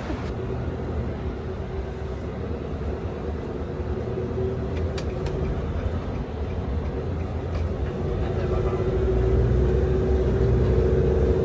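Road vehicle driving: steady engine and road rumble with a steady whine that grows louder toward the end, as if the vehicle is speeding up.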